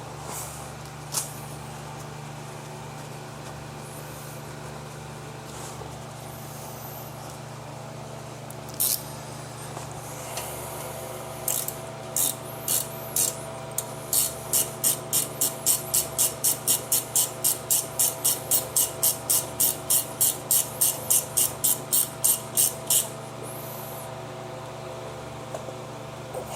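A hand ratchet tightening the brake caliper slide-pin bolts: a few separate clicks at first, then a steady run of quick ratcheting strokes, about three or four a second, that stops suddenly a few seconds before the end.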